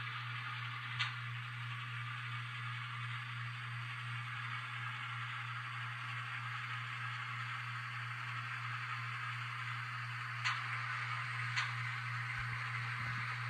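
N-scale Kato E8A model diesel locomotive running with its Digitrax sound decoder playing diesel engine sound: a steady low hum with an even hiss above it. There are three short clicks, one about a second in and two close together near the end.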